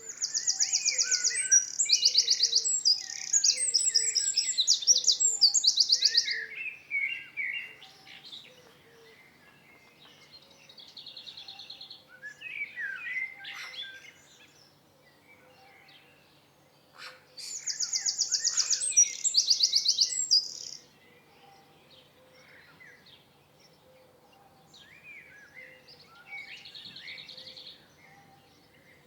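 Songbirds singing: a loud song of fast, high trills and warbles at the start and again partway through, with fainter songs between.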